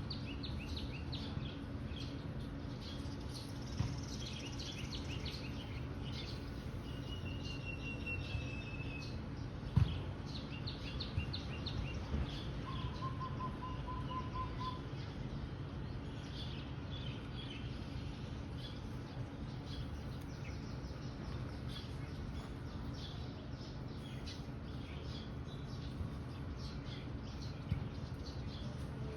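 Birds chirping and calling: many short high chirps, with a longer high trill and, a little later, a lower pulsed trill, over a steady low background rumble. A couple of brief knocks come about four and ten seconds in.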